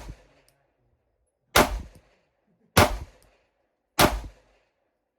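Three 9mm pistol shots from a Glock 43X, spaced about a second and a quarter apart, each dying away quickly, with the tail of a previous shot fading just as it begins.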